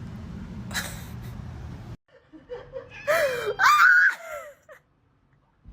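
A steady low rumble cuts off about two seconds in. Then a person laughs loudly for a second or two.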